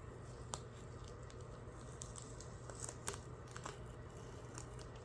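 Decal transfer paper being peeled back off a freshly laid vinyl decal, giving faint scattered crinkles and crackles over a steady low hum.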